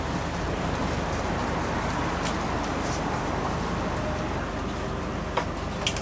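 Steady street noise over a low, even engine hum, with a couple of sharp clicks about five and a half seconds in.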